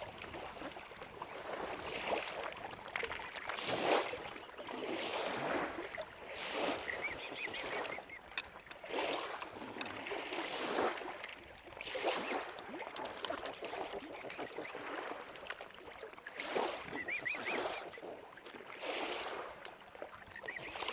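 Waterfowl calling: repeated short calls every second or two, with a few faint high chirps between them.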